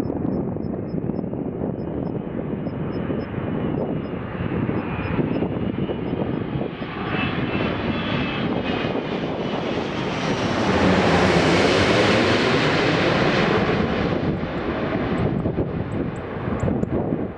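Airbus A380-800's four jet engines on landing approach, swelling to their loudest as the airliner passes the listener about eleven seconds in, then easing off.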